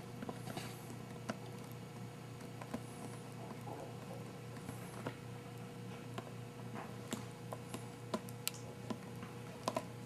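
Faint steady low hum with scattered small clicks and ticks: background room tone between lines of narration.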